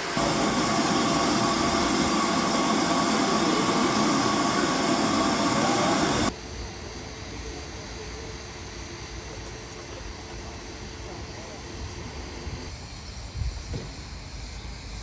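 A train passing close by: a loud, steady rushing noise that cuts off suddenly about six seconds in, leaving quieter outdoor background with a few faint knocks.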